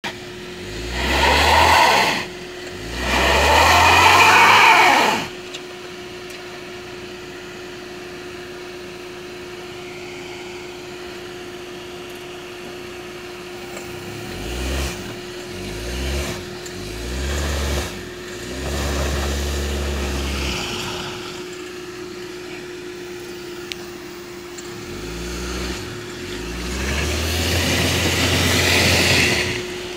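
A Chevrolet sedan's small petrol engine revved hard in bursts while stuck in mud, the driven front tyre spinning without grip. Two sharp revs open, then the engine idles for about nine seconds before a series of shorter revs and a longer one building near the end.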